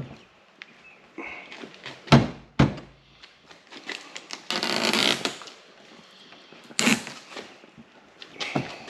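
Hands fitting a plastic hood protector onto a pickup's hood: a few sharp knocks, two close together about two seconds in and another near seven seconds, with a rustling scrape around five seconds.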